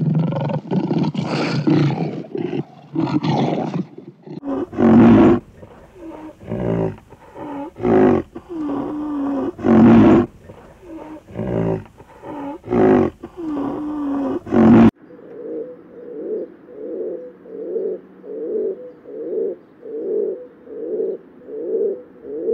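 Lions roaring and growling, then a run of loud, pitched animal calls about a second long each, some gliding in pitch. About two thirds of the way in, these give way to a rock pigeon cooing over and over, about two coos a second.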